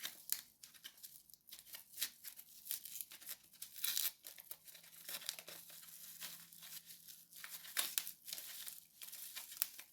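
Packaging crinkling and rustling in irregular short crackles as the next lock is handled and taken out of its wrapping.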